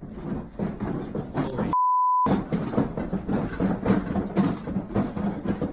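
A single steady 1 kHz censor bleep lasting about half a second, about two seconds in, with the rest of the audio muted while it plays. Around it is busy, noisy clip audio.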